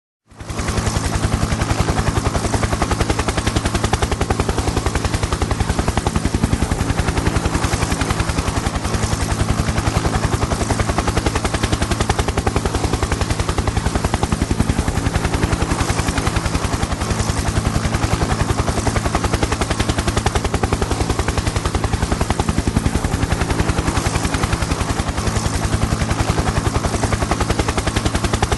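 Helicopter in flight: the rotor blades chop in a rapid, even beat over a steady low engine hum. The sound rises in at the very start and then holds steady.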